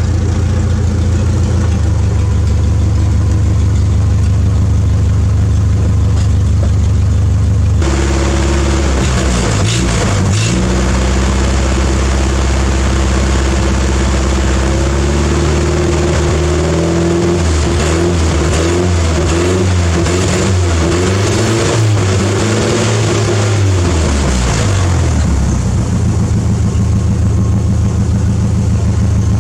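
Toyota 4Y 2.2-litre inline-four petrol engine in a 1986 Hilux running at a steady idle, then its speed rising and falling repeatedly for about a quarter of a minute before it settles back to a steady idle.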